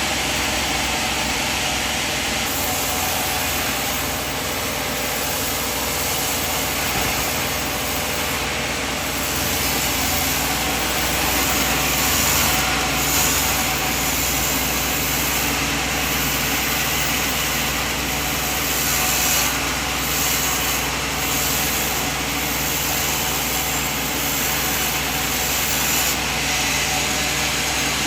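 Sawmill machine running steadily: a constant machine hum with a hiss over it that swells and fades a little.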